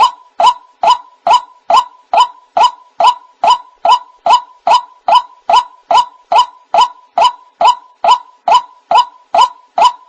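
White-breasted waterhen call played as a hunting lure, one short note repeated at an even pace of about two and a half a second.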